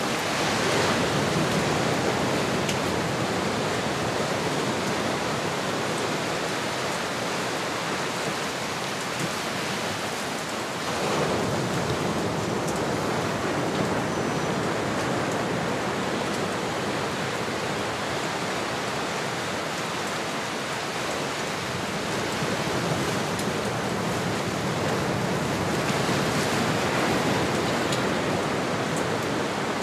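Ocean waves washing on a shore in a steady hiss of surf, swelling louder about a second in, again around eleven seconds, and once more near the end.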